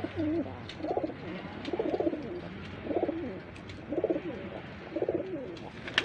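Feral pigeons cooing, a repeated low call about once a second.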